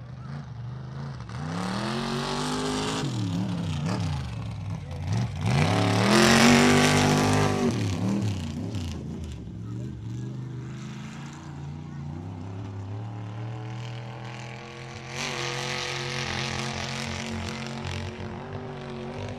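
Super-class mud truck's engine revving hard through a mud pit, its pitch rising and falling again and again. It is loudest about six to eight seconds in, then settles into a steadier high run near the end.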